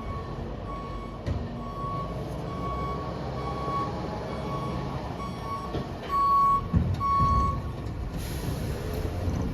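Scania bin lorry reversing: its reversing alarm beeps repeatedly at one steady pitch over the diesel engine running. The beeping stops about three-quarters of the way through, with a few heavy knocks, then a burst of hissing air near the end.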